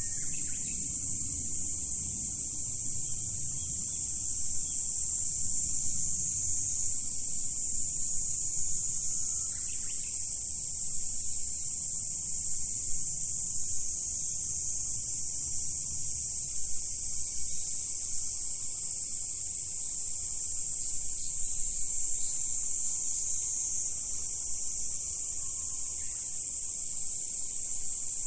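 Steady, high-pitched chorus of insects, unbroken throughout, with a few faint, brief bird calls.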